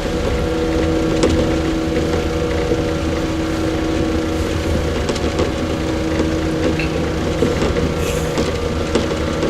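115-series electric multiple unit running between stations, heard inside the KuMoHa 115 motor car. A steady traction-motor hum and wheel rumble with scattered clicks from the rails.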